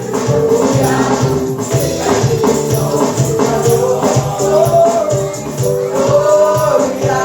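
Gospel praise and worship music: voices singing together over a band with a steady beat and a shaken tambourine.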